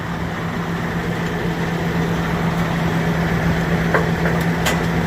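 Semi truck's diesel engine idling steadily, with a couple of light clicks near the end.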